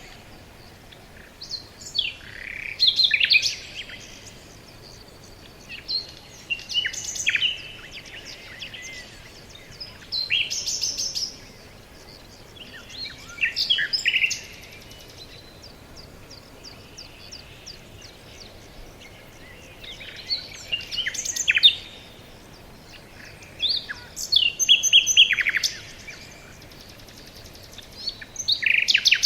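Forest songbird song: short, quick, high phrases of about a second or two, each repeated every three to four seconds, over a faint steady background hiss.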